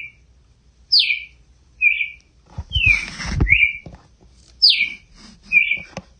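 Red-crested cardinal singing: short, clear phrases repeated about once a second, falling slurred notes alternating with short rising ones. A brief low rumble, like wind on the microphone, comes about three seconds in.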